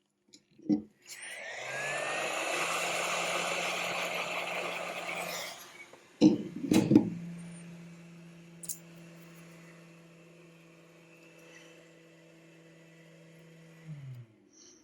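A small electric motor runs with a loud rushing hiss for a few seconds, then a quieter steady hum after a couple of sharp knocks, and winds down, dropping in pitch, near the end.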